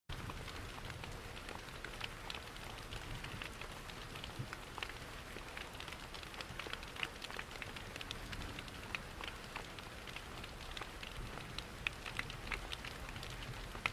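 Layered rain-and-fireplace ambience: a steady hiss of rain over a low rumble of falling water, dotted all through with small sharp crackles and pops.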